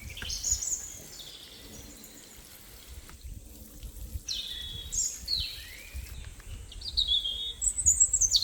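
Outdoor birds singing, a string of short high chirps and quick falling calls repeated throughout and loudest near the end, over a low rumble.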